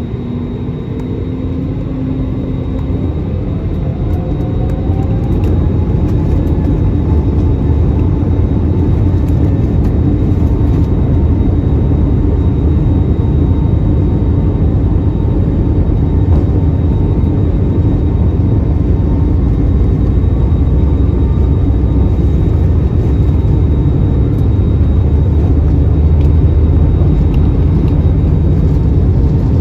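Airbus A320neo's Pratt & Whitney geared turbofan engines spooling up for departure: a whine rising in pitch over the first few seconds, then a loud, steady low rumble at high thrust.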